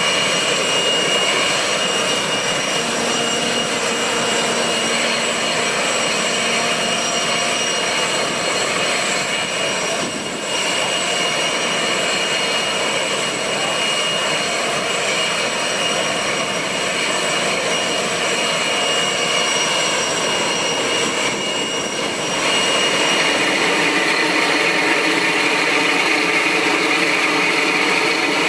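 Boeing 747-400 freighter's jet engines running, a loud, steady rush of noise with high whining tones over it. It grows louder about 22 seconds in.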